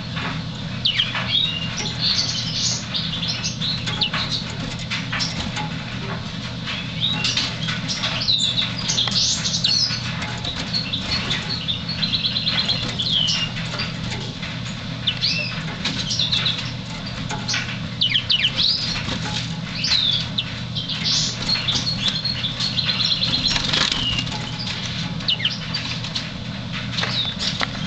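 Yellow canary singing: a string of short whistled chirps, quick rising and falling notes and brief trills, over a steady low hum, with many small taps and flutters mixed in.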